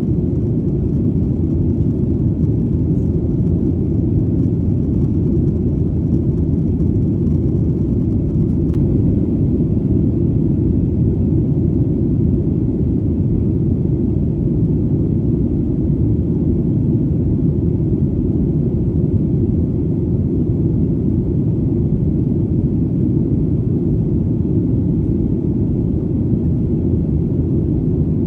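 Steady, low airplane engine drone, a deep even rumble with almost nothing in the higher range, unchanging throughout.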